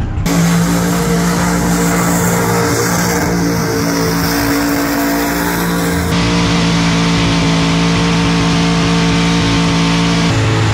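Supercharged engine of a burnout pickup held at high, steady revs during a smoky burnout. The sound changes abruptly about six seconds in, and the engine note drops near the end.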